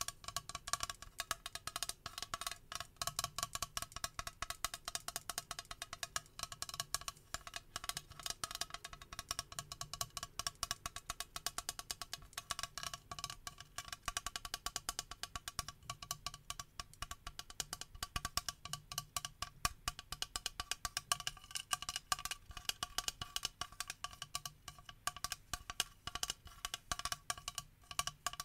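Rapid tapping on a toner bottle, many quick clicks a second, each ringing with the bottle's hollow pitch.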